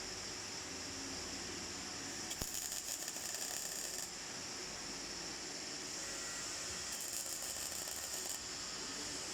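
MIG welding arc crackling in two short welds of about a second and a half to two seconds each, over a steady hiss.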